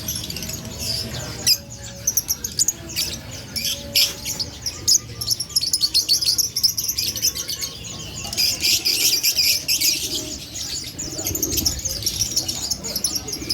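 Many caged songbirds chirping and twittering at once, a dense, unbroken chorus of quick, high, overlapping calls.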